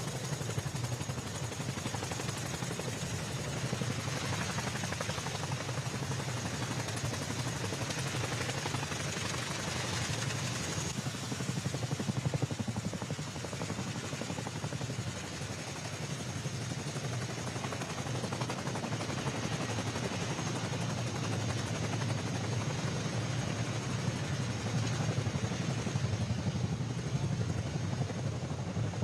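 CH-47 Chinook tandem-rotor helicopter running: steady rotor and twin-turboshaft engine noise with a thin high whine over it, growing a little louder near the end.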